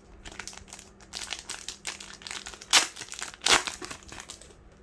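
Foil wrapper of a Cardfight!! Vanguard booster pack crinkling as it is handled and opened, a quick run of crackles with two louder sharp ones near the middle.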